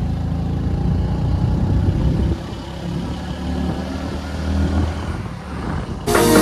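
Motorcycle engine running while riding, with road and wind noise; the engine note drops and shifts after about two seconds. Background music comes in near the end.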